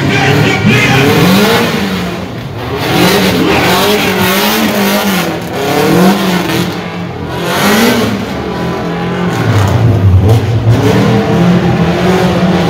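A car engine revving, its pitch rising and falling again and again.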